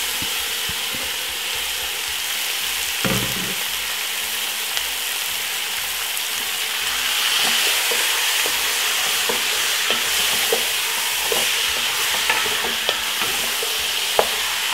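Marinated curry chicken sizzling in a pot of hot oil while it is stirred with a wooden spoon, with frequent short knocks of the spoon against the pot, more of them in the second half. A dull thump about three seconds in.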